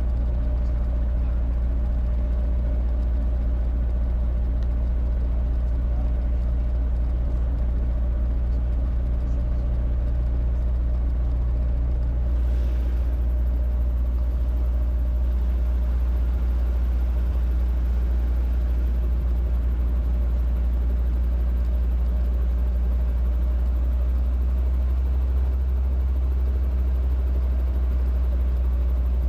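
Robinson R22 helicopter's four-cylinder Lycoming piston engine and rotor running steadily, a constant low-pitched sound with no change in level.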